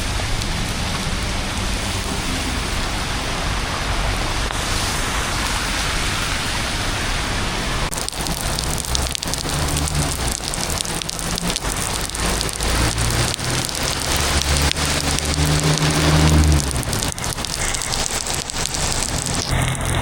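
Heavy rain pouring steadily. From about halfway through, many close, sharp drop hits come through the rain, and a low rumble swells and fades a few times.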